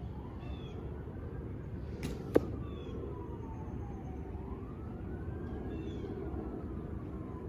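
An arrow whooshes briefly and strikes with a sharp smack about two seconds in. Behind it, a faint siren slowly wails up and down.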